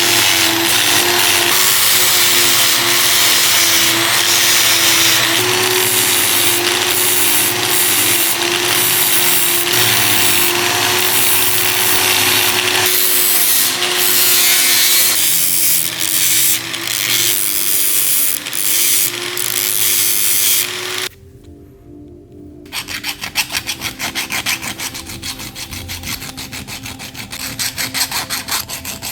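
A power tool, such as a grinder or sander, works against a part with a steady hum for about twenty seconds, then cuts off suddenly. Rapid back-and-forth hand strokes of filing or sanding follow.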